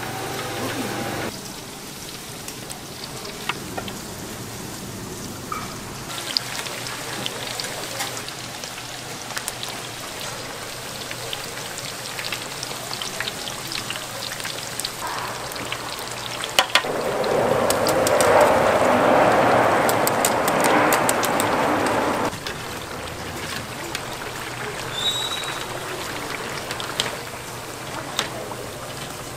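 Food sizzling in hot oil or on a hot iron plate, a steady sizzle with scattered light clicks of utensils. About seventeen seconds in, the sizzling swells louder for some five seconds, then drops back.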